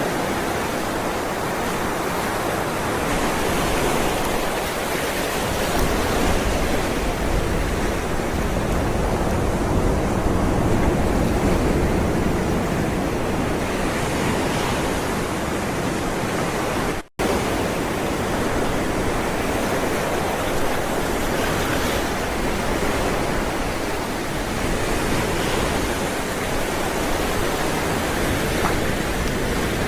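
Ocean waves rolling and breaking in a continuous wash of surf that slowly swells and eases. The sound cuts out for a split second about two-thirds of the way through, then carries on.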